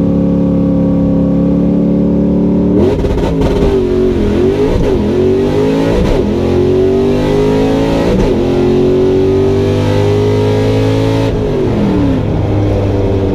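Drag car engine holding steady revs, then launching about three seconds in and pulling hard through several gear changes, its pitch climbing between each shift. It lifts off about eleven seconds in and the pitch falls away.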